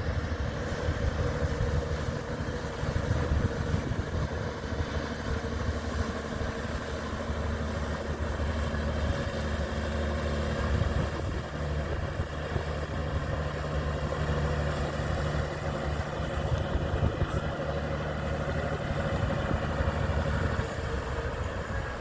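Fishing boat's engine running steadily as the boat motors in, a low, even engine note.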